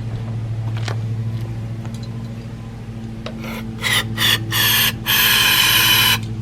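Case 224 garden tractor engine running with a steady hum. From about three and a half seconds in come several harsh rasping bursts, the last and longest lasting about a second.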